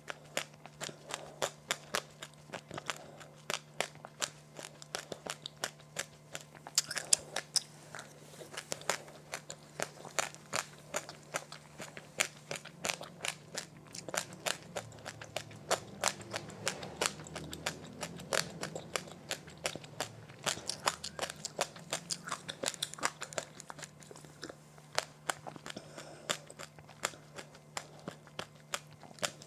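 Close-up chewing and biting of crunchy seed snacks: rapid sharp crunches, several a second, over a faint steady hum.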